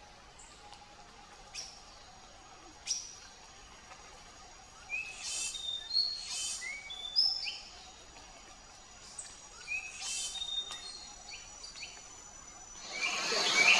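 Wild forest birds calling: a couple of sharp single clicks, then two bursts of short, upward-slurred whistled notes. Near the end a louder rushing noise rises, with more calls over it.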